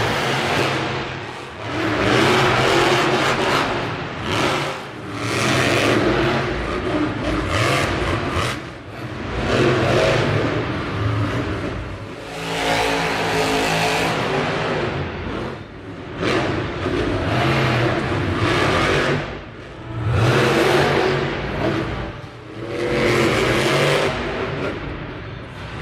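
Monster truck engine revving hard in repeated surges every two to three seconds, with short lifts off the throttle between them.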